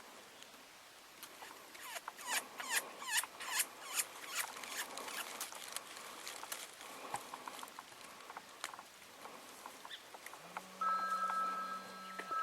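Bird distress sounds blown on a mouth diaphragm predator call: a quick run of sharp, squealing chirps, about three a second, for a few seconds, made to call in predators. Near the end a steady hum with a higher steady tone comes in.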